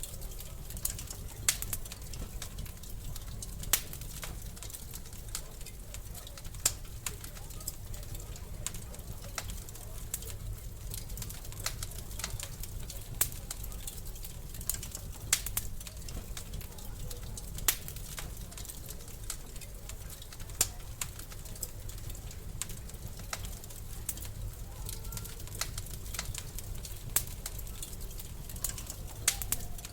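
Wood fire crackling in a fireplace: irregular sharp pops and snaps, a few every couple of seconds, over a steady low rumble of the flames.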